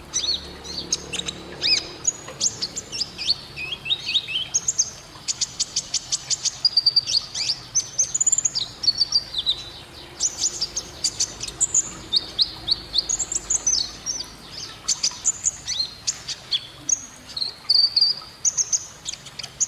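Domestic canary singing a long, unbroken song of high chirps and fast trills, with runs of rapidly repeated scratchy notes, the 'gesekan' style prized by song-bird keepers.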